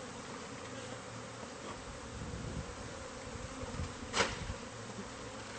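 Swarm of honeybees buzzing steadily around an opened hive in a house wall, with one brief sharp noise about four seconds in.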